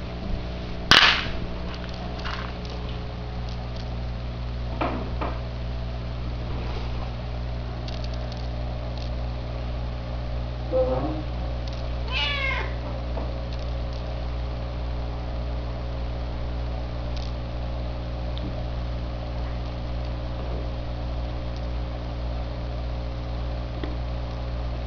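A house cat meowing and yowling several times, with a wavering cry near the middle, over a steady low hum. The loudest moment is a short, sharp sound about a second in.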